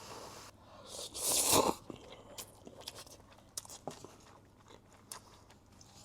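A person eating close to the microphone: one loud wet mouth noise about a second in, then chewing with scattered small crunches and clicks.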